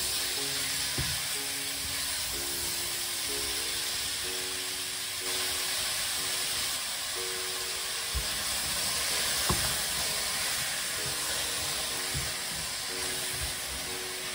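Diced courgettes sizzling steadily as they sauté in oil in a stainless-steel pan, with a few light knocks as the spatula stirs them.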